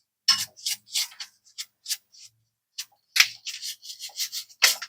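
A brush scrubbing crusty buildup off a part in quick, irregular scratchy strokes.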